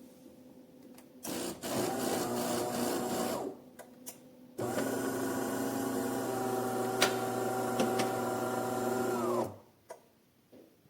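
De'Longhi Magnifica Start fully automatic espresso machine running its motor: two spells of steady mechanical whirring, the first about two seconds long and the second about five, with a few clicks in the pause between them.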